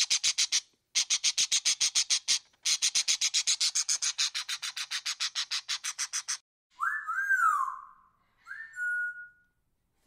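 Parrot calls: a rapid, dry chatter of about ten notes a second, broken by two short gaps, then a few clear whistles that rise and fall in pitch.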